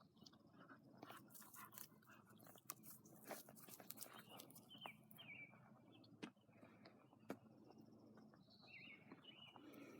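Cattle dog mix chewing and tearing at grass: faint, irregular crunching and crisp clicks. Small birds chirp a few times, about halfway through and again near the end.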